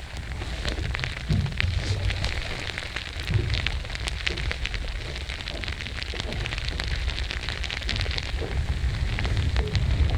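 Rain falling, heard as a dense crackle of small drop ticks, with wind rumbling on the microphone.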